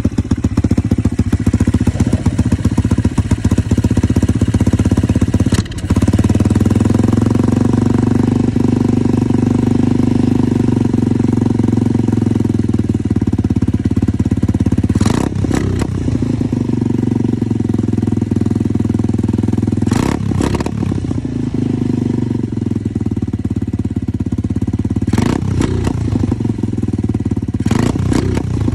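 150cc single-cylinder dirt bike engine running steadily near idle on a freshly fitted Nibbi racing carburetor that is being tuned, with a few brief sharp sounds over it.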